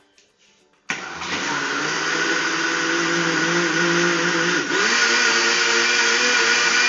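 Kitchen blender switched on about a second in, its motor running steadily as it blends a liquid pudding mixture. Its pitch dips briefly and shifts a little past halfway, then runs on steadily.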